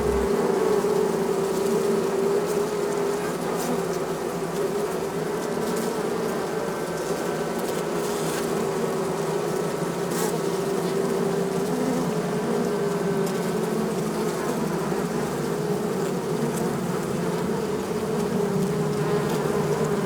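Honeybee colony buzzing, a dense steady hum of many bees with a slightly wavering pitch.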